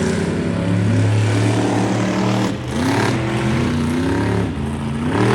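Monster truck engines running hard during a race, revving up and dropping back several times.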